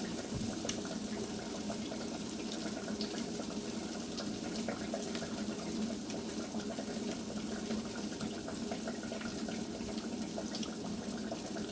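Hot oil sizzling steadily in a frying pan, with scattered small crackles and pops.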